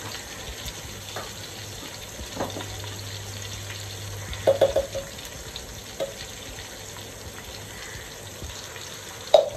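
Chopped onions and tomatoes frying in oil in an aluminium pot: a steady sizzling hiss, with a few short clinks.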